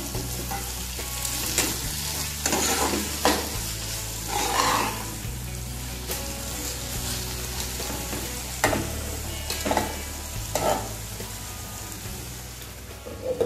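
Onion-tomato masala sizzling in a nonstick frying pan as it is stirred with a spatula, with a steady frying hiss and brief scrapes of the spatula against the pan every second or so.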